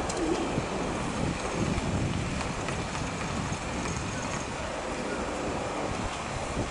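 SNCF BB 22200 electric locomotive hauling a rake of RRR regional coaches at low speed: a steady rumble from the moving train, with wind noise on the microphone.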